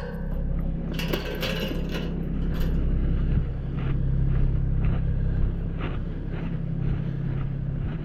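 An engine running steadily, its low hum rising a little in pitch about halfway through, with a few light knocks and rattles over it.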